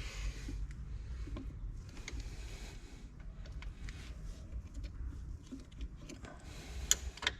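Scattered light clicks, rubbing and brief hisses of hand work at a brake caliper's bleed nipple while the brakes are bled, over a low steady rumble.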